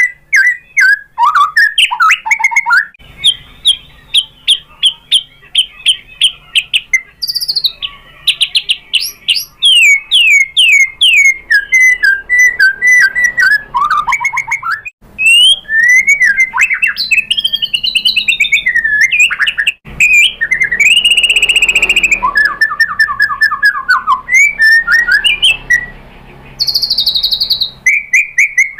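White-rumped shama singing a long, varied song: rapid trills, clear rising and falling whistles and chattering phrases that change every second or two, with short breaks between passages.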